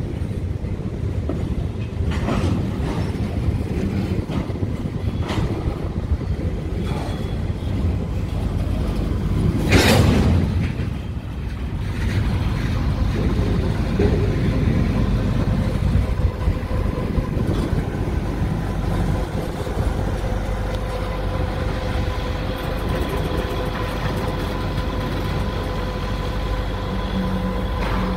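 Train running past on the line, a steady rumble with a few sharp clicks of wheels over rail joints. A loud rush of noise comes about ten seconds in, and a steady hum joins from about twelve seconds on.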